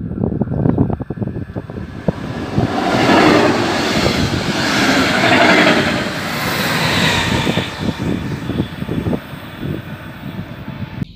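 A regional train of double-deck coaches worked by an electric locomotive passes close by at speed. A rush of wheel and air noise swells about two seconds in, is loudest for several seconds, then fades as the train runs away.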